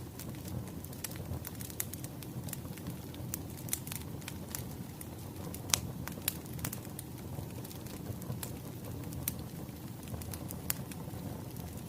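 Wood fire crackling: a steady low rumble with scattered sharp pops, the loudest about six seconds in.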